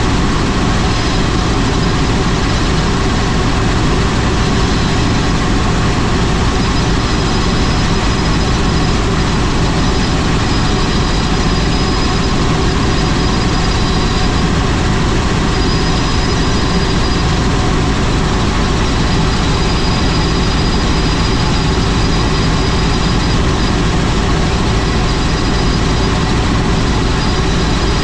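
Helicopter in flight, its engine and rotor running steadily and loudly, with a faint high whine that comes and goes.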